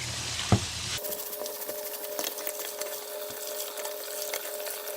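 Soapy foam air filter from a concrete saw being squeezed and worked by hand, with a fizzy crackle of popping suds and small wet squelches. About a second in, the background changes abruptly.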